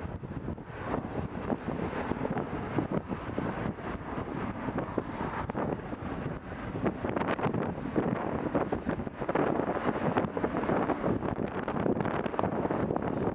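Wind buffeting the microphone in irregular gusts, growing stronger in the second half.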